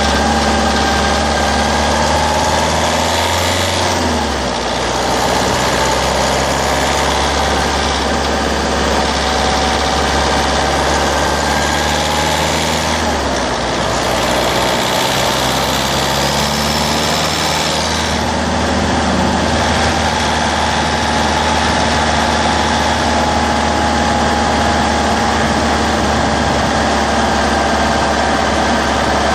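Citroën C3's 1.4 HDi DV4TD four-cylinder turbodiesel engine running, its note shifting in pitch a few times, with brief dips in loudness about four and thirteen seconds in.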